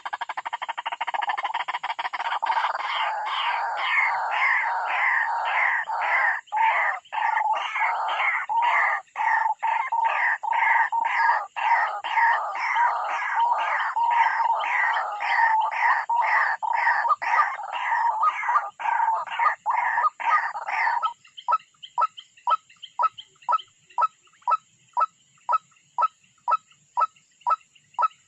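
White-breasted waterhen calling: a long run of harsh, repeated croaking calls, two to three a second. About three quarters of the way through they thin to single, evenly spaced notes at about two a second.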